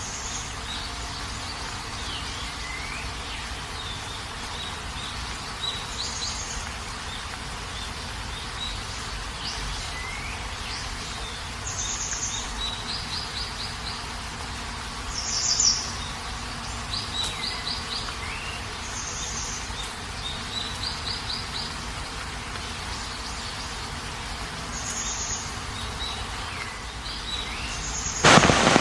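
Birds calling in rural surroundings: short high chirps, quick trilled phrases and rising whistled notes repeat every few seconds over a steady background hiss. Right at the end a much louder noise starts suddenly.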